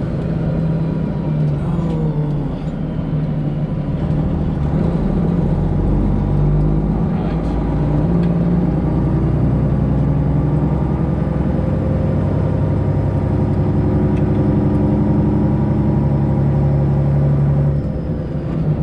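Freightliner Classic XL semi truck's Detroit Diesel 12.7-litre engine running as the truck is driven slowly, getting louder about six seconds in and easing off briefly near the end.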